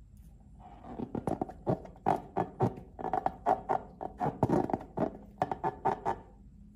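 Slime being squeezed and worked by hand: a quick, irregular run of sticky pops and clicks.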